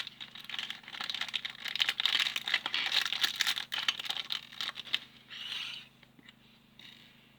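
Small hard plastic building pieces clattering and clicking rapidly as they are handled, stopping about five seconds in, followed by two short rustles.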